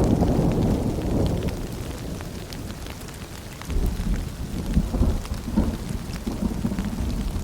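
Steady rain pattering, with fine drips throughout. A deep low rumble dies away over the first few seconds, then swells again about halfway through and rolls on, rising and falling.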